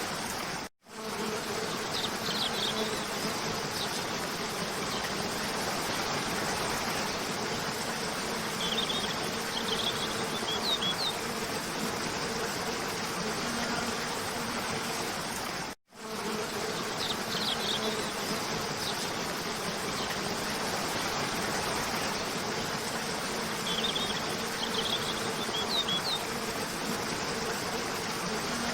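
Waterfall rushing steadily under a low, even buzzing hum, with a few small clusters of short, high bird chirps. The sound cuts out for an instant twice, about fifteen seconds apart, and the same stretch then repeats as a loop.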